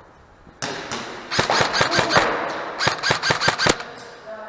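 Airsoft guns firing two rapid strings of sharp cracks, the first from about a second in and the second near the end, each shot trailing a short echo.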